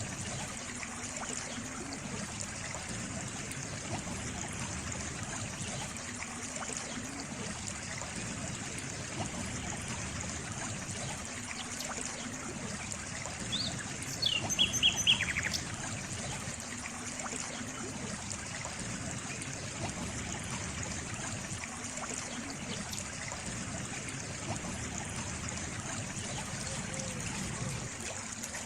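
Water trickling and running steadily, like a small stream. About fourteen seconds in, a bird gives a short call of several quick notes that fall in pitch.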